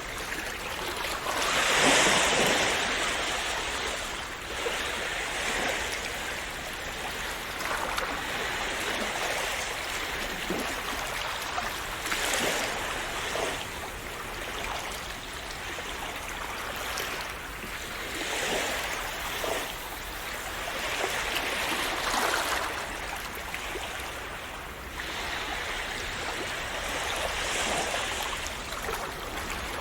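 Calm sea waves washing and splashing on the shore: a continuous wash of water that swells every few seconds, the biggest swell about two seconds in.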